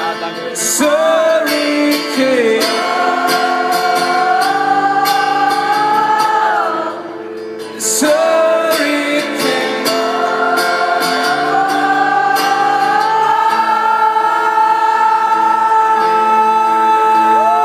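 Live rock band music with wordless singing in long, slowly gliding held notes over sustained chords, giving a choir-like sound. There is a brief drop about seven seconds in, and the last note is held for about eight seconds.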